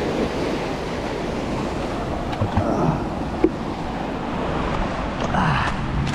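Rough ocean surf washing against the shore, with wind on the microphone, and a single sharp click about three and a half seconds in.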